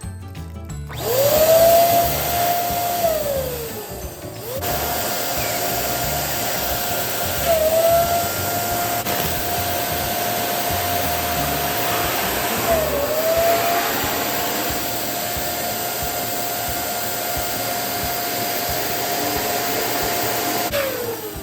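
Small electric air pump running as it inflates balloons: a steady motor whine with rushing air. It spins up about a second in, winds down and stops briefly, then runs again with two short dips in pitch before winding down near the end. Background music plays faintly underneath.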